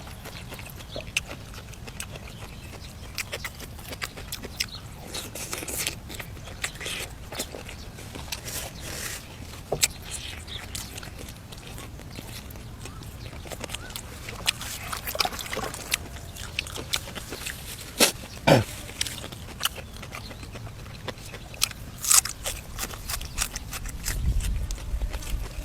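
Close-up eating sounds of a person chewing braised duck: wet smacking, bites and irregular clicks, the sharpest pair about two thirds of the way through.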